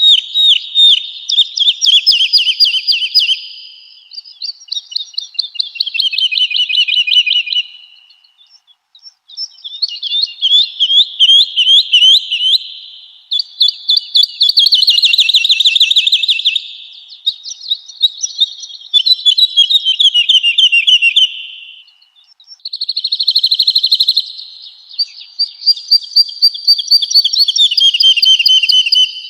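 Woodlark singing: about eight phrases of fast, repeated notes, many of them stepping down in pitch through the phrase, with short pauses between phrases.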